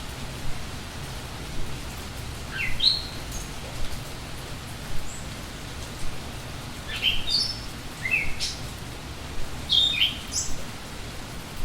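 Steady rain falling, with a songbird chirping in short, quick upward-sweeping phrases that come in a few separate bursts.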